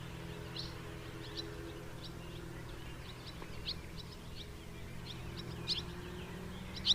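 House martins calling: short, quick chirps scattered irregularly, a few louder ones near the end, over a steady low hum.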